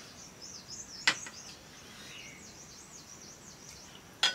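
Birds chirping steadily, with two sharp clicks, one about a second in and one near the end.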